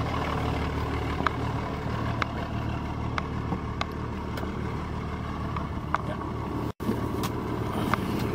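1990 Dodge pickup's 5.9 Cummins 6BT inline-six turbo diesel idling steadily just after a cold start, with sharp ticks about once a second over the low running. The sound cuts out for an instant about two-thirds of the way through.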